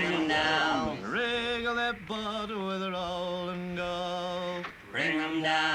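A man's solo voice singing a sea shanty, holding long notes with vibrato and breathing briefly between phrases.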